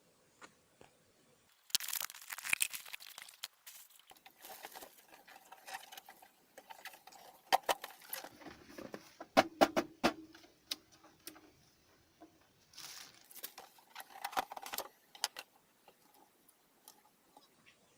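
Packaging being handled and opened by hand: several bursts of rustling, tearing and sharp clicks, with a brief squeaky scrape about halfway through.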